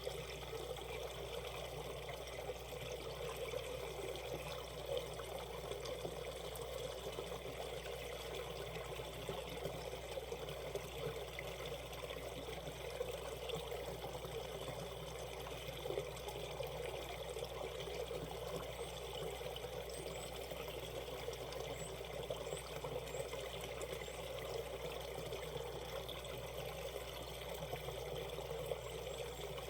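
Shallow valley stream running over rocks in a steady, even trickle and burble.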